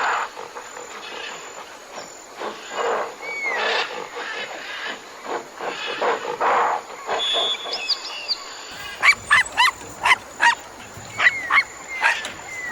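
Dogs barking and yipping: scattered separate barks at first, then, after a change of recording about nine seconds in, a quick run of short, high yips.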